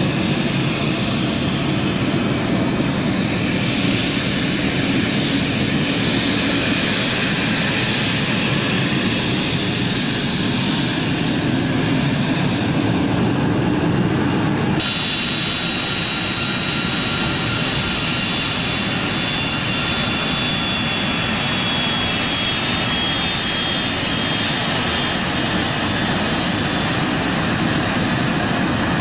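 Jet airliner engines running with a steady roar and thin high-pitched turbine whine. The sound changes abruptly about halfway through to a different engine sound with more pronounced whistling tones.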